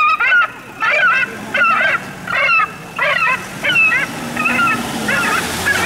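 Airport bird control vehicle's loudspeaker blaring an electronic bird-scaring call, a wavering, warbling squawk repeated over and over at about one and a half calls a second. A faint low hum runs underneath.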